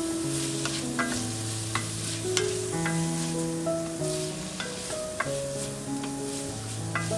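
Food sizzling in a pan while being stirred, with sharp clicks of a utensil against the pan, under soft background music of slow, held notes.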